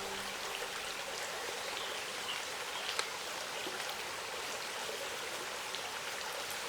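Steady rush of flowing water, with a few faint ticks and one sharper click about three seconds in.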